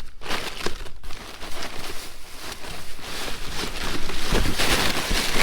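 A bag crinkling and rustling as hands rummage through it, growing louder a few seconds in.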